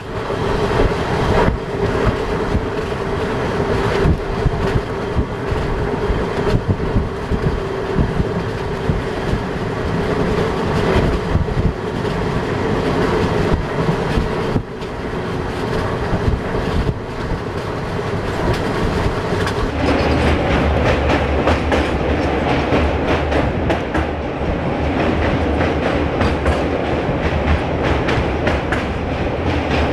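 Passenger express train running at speed, heard from aboard, with the wheels clicking over the rail joints. About twenty seconds in the sound becomes fuller and deeper.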